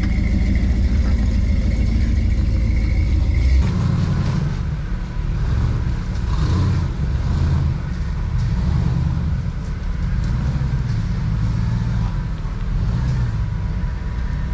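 Off-road rock crawler's engine working at low speed through rocks. It holds steady for a few seconds, then changes about three and a half seconds in to an uneven rumble that rises and falls with the throttle.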